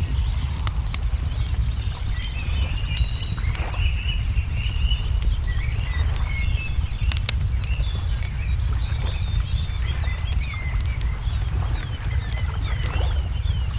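Wood fire crackling with scattered sharp pops over a steady low rumble, while songbirds chirp and sing, with a run of short falling notes near the end.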